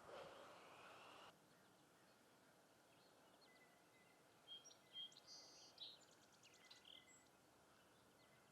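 Faint outdoor ambience with small birds calling: a few short high chirps, a brief buzzy call and a quick trill about halfway through. A louder hiss of background noise cuts off about a second in.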